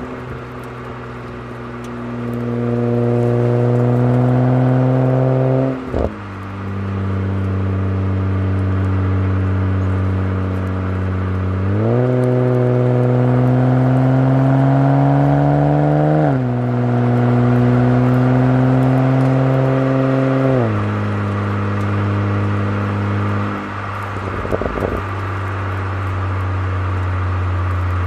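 BMW 135i's N54 twin-turbo inline-six running through a custom exhaust with a Borla ProXS muffler, under way. The exhaust note climbs in pitch as it pulls, drops sharply at each upshift (three times), and settles into a steady drone between pulls. There is a brief crackle about three-quarters of the way in.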